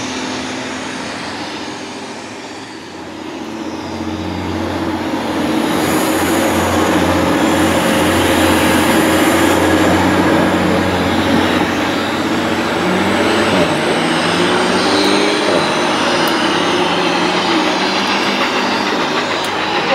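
Train of passenger coaches hauled by the steam locomotive 60163 Tornado running past, its wheels rumbling on the rails. The sound swells from about three seconds in and then holds steady, with wavering whining tones over the rumble in the second half.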